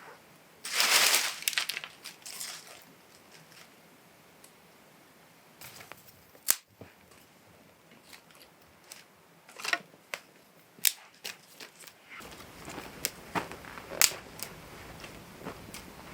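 A newly lit campfire of kindling catching in a small cave, with sharp crackles and snaps of burning twigs. There is a short loud rushing noise about a second in.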